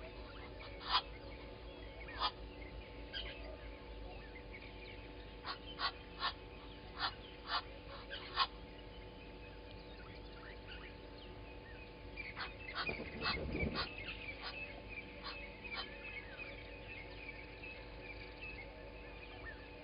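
Wild birds calling in the morning: a string of short, sharp calls at irregular intervals, then fainter chattering from smaller birds, with a brief low sound about thirteen seconds in. A faint steady hum lies underneath.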